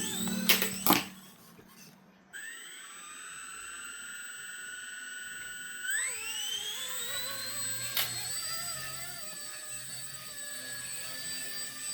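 Micro brushless RC helicopter's motors spinning up with a high whine, after a few knocks at the start. About six seconds in the whine rises sharply in pitch as the throttle comes up, then holds, wavering slightly up and down.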